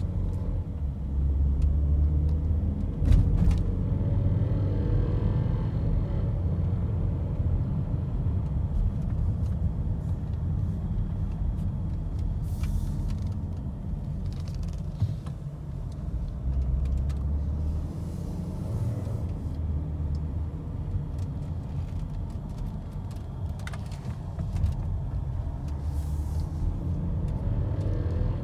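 2011 BMW X5 in motion: a steady low rumble with a few short, sharp rattles standing out now and then, the rattle noise the owner is trying to capture.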